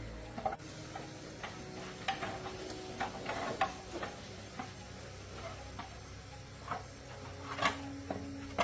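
Irregular light clicks and taps, about two or three a second at the busiest, over a low steady background.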